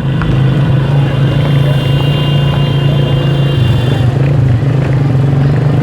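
Vehicle engine running with a loud, steady low drone, and a faint steady high tone that stops about four seconds in.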